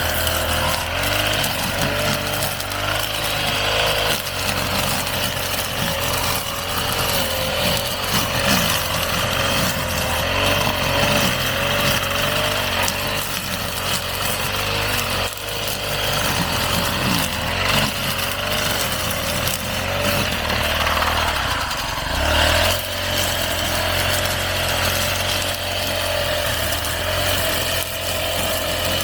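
Petrol brush cutter running steadily while cutting grass, its engine note wavering slightly as the load changes.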